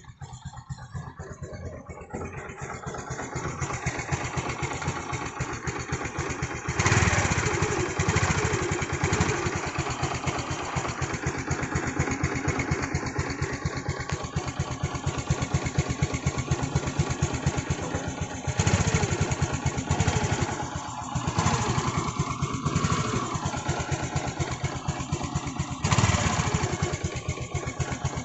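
Honda Activa scooter's single-cylinder four-stroke engine running at the exhaust, a steady rapid putter near idle. It picks up in the first few seconds and gets three short blips of the throttle: about a quarter of the way in, about two-thirds in, and near the end.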